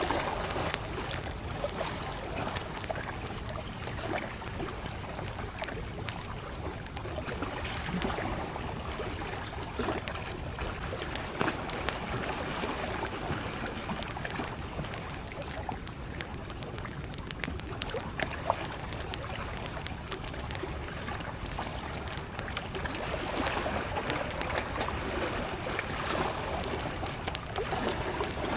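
Small waves lapping gently at a lake shore beside a crackling wood campfire: a steady wash of water with scattered sharp pops and snaps from the fire.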